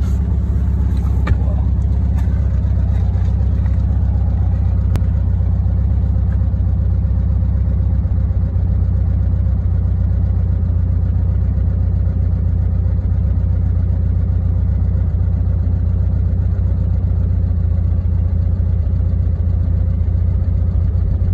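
A vehicle's engine idling, a steady low rumble heard from inside the cab.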